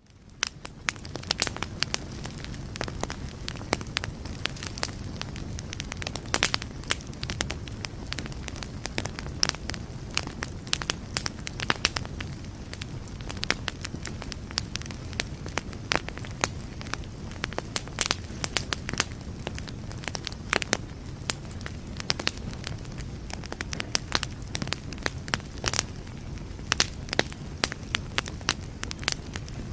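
Wood campfire burning: firewood crackling and popping in sharp, irregular snaps over a steady low rumble of the flames, fading in over the first second.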